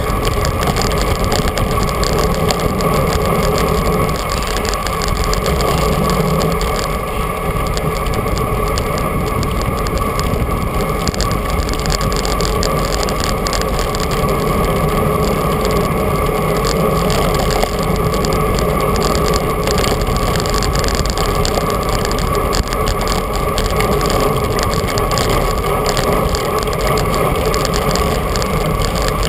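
Steady rush of wind and road noise while riding a bicycle, with no letup.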